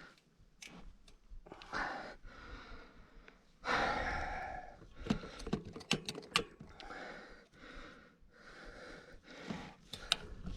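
A mountain biker breathing hard, a loud breath about every second or two, with scattered sharp clicks and knocks from the bike between breaths.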